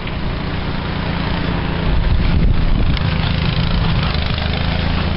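A small engine running steadily with a low hum, under the rush of blizzard wind on the microphone.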